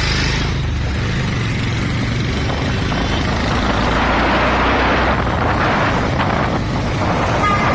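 Motorcycle engine running while riding, a steady low hum, with a rushing noise swelling over it about halfway through.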